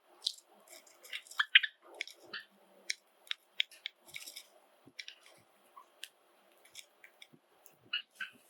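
Pet Java sparrows making short, sharp chirps and clicks at irregular intervals, several to a second at times.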